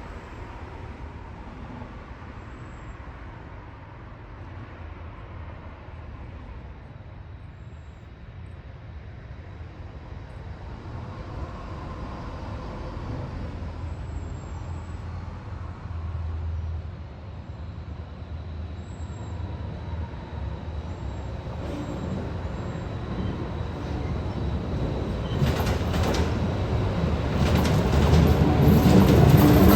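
MARC commuter train's diesel locomotive approaching, its low rumble growing steadily louder. In the last few seconds sharp clicks and clatter of wheels on the rails join in as it draws near.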